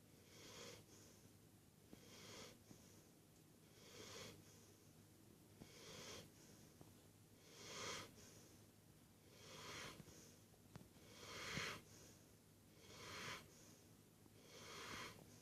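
Dog snoring in its sleep: steady, even breaths, about one every two seconds, each followed by a short second puff.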